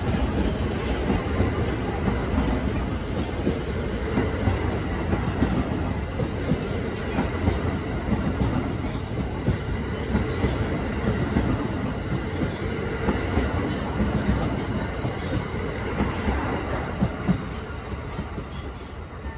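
Cassiopeia sleeper train's stainless double-deck coaches rolling past slowly as the train pulls out, a steady rumble of wheels on rails with the clatter of wheels over rail joints. The sound fades near the end as the last car goes by and the train draws away.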